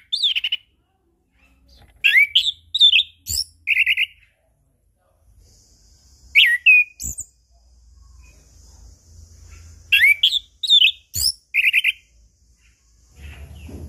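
Chestnut-capped thrush (anis kembang) singing: short phrases of quick slurred whistles and brief trills, in four bursts with pauses between them.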